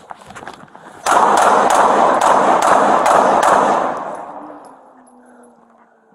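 A rapid, evenly spaced string of about seven handgun shots from a police officer's pistol, about two and a half a second, starting about a second in. The shots run together into a loud blast of noise that dies away over the following second.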